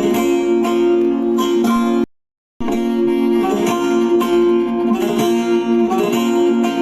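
Instrumental break in a Turkish folk song: a plucked string instrument plays a melody over a steady held low note. About two seconds in the sound cuts out completely for half a second, then resumes.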